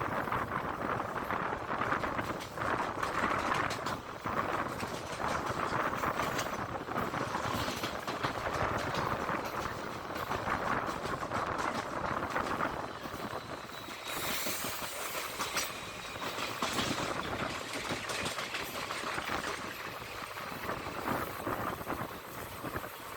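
Express passenger train running through a station at speed without stopping: steady rumble of the coaches with fast wheel clatter over the rail joints, and a brief hiss about fourteen seconds in.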